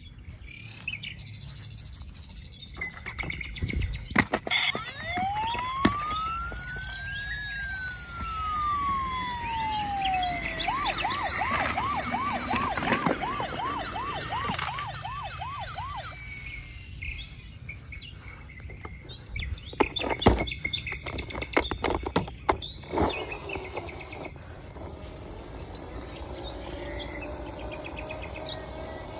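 Electronic police-style siren from a toy police car: one long wail that rises and falls, then a fast warbling yelp for about five seconds. Sharp plastic knocks and clatter come before it and again later.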